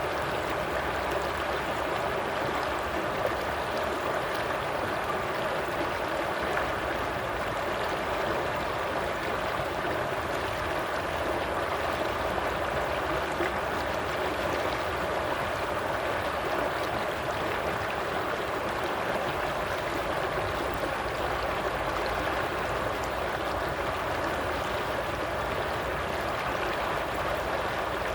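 Stream water flowing and burbling steadily over rocks.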